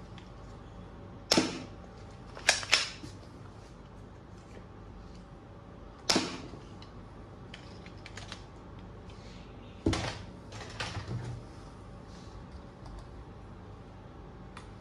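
Sharp plastic clicks and snaps from a toy gun being worked by hand, five loud ones spaced a few seconds apart, the second and third close together, with a flurry of lighter clicks after the last.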